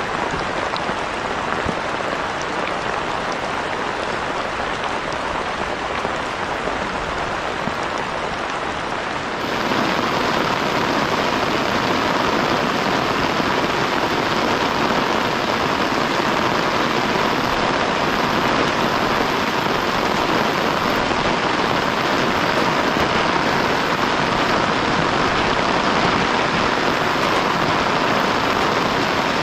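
Heavy rain falling steadily. About a third of the way in it switches abruptly to a louder, denser downpour, which then holds steady.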